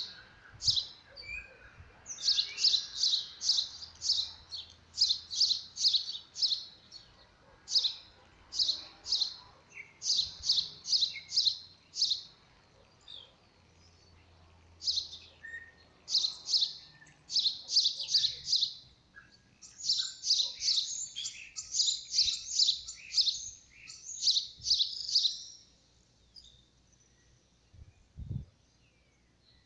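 A bird chirping: runs of short, high chirps, about four a second, repeated with brief pauses and stopping a few seconds before the end. Near the end there is a single low thump.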